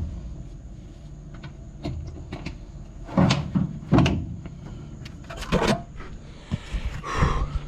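A few sharp knocks and clunks, about three seconds in, at four seconds and again near six seconds, over a steady low hum, with a louder noisy stretch near the end.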